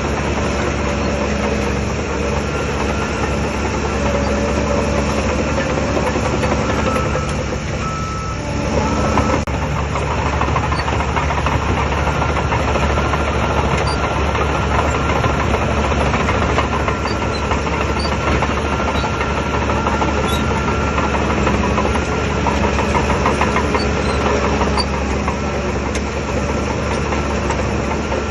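Shantui DH17 crawler bulldozer's diesel engine working steadily under load, with a dense clatter over it. About eight seconds in the sound dips briefly, then picks up again.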